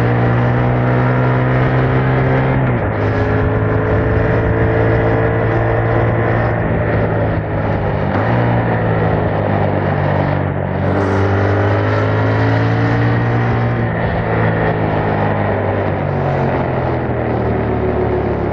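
Yamaha MT-07's 689 cc parallel-twin running through its original exhaust with the dB killer removed, heard on the move. The engine note climbs and then jumps to a new pitch several times as the rider works through the gears.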